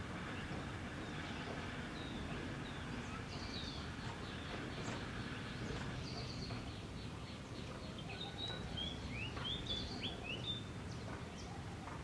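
Small birds chirping, short calls and quick falling whistles that come thickest a little after the middle, over a steady low background rumble.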